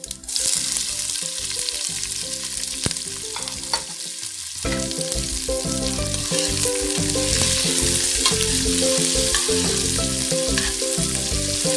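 Chopped onion going into hot oil with whole spices in a large pot and sizzling. The sizzle starts suddenly and grows louder about five seconds in as the onion fries.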